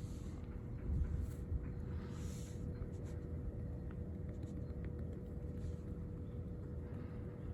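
Quiet background rumble with a faint steady hum, a soft low thump about a second in, and a few brief rustles and faint clicks.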